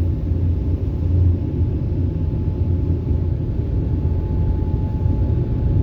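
Steady low rumble of a Ryko Voyager in-bay automatic car wash running over the car, heard from inside the car's cabin. A faint steady hum joins about four seconds in.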